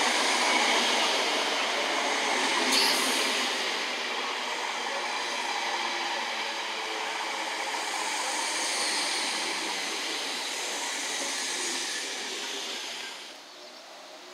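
Electric multiple unit train running past, a steady rush of wheels on rail with one sharp click about three seconds in. The sound cuts off suddenly near the end.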